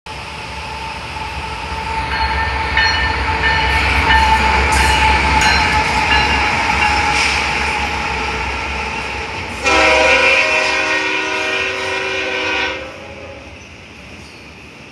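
Union Pacific diesel freight locomotives passing close, with a low engine rumble and rail noise. About ten seconds in a train horn sounds one long, steady blast of several notes together, cut off after about three seconds. After that only the quieter rolling of double-stack container cars remains.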